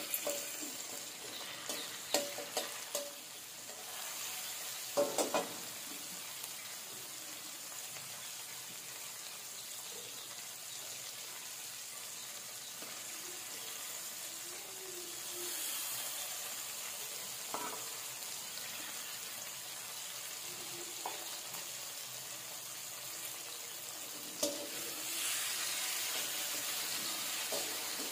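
Chopped tomatoes sizzling in hot oil in a large aluminium kadai, stirred with a flat spatula that scrapes and clicks against the pan every few seconds. The sizzle grows louder for a moment about halfway through and again near the end.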